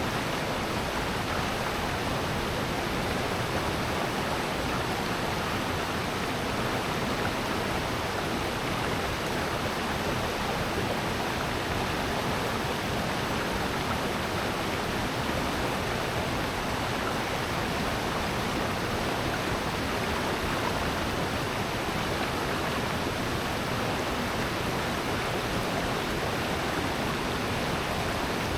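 Valley stream rushing steadily over rocks, a constant even wash of water.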